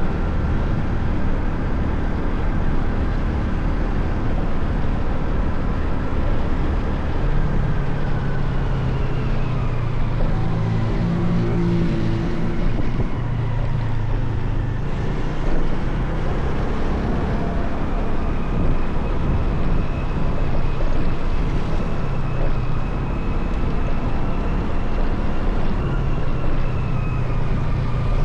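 Motorcycle engine running on the move, its pitch slowly rising and falling over a steady low rumble.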